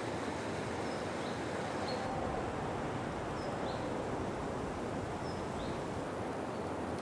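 Birds giving short, high chirps every second or two over a steady outdoor background hiss.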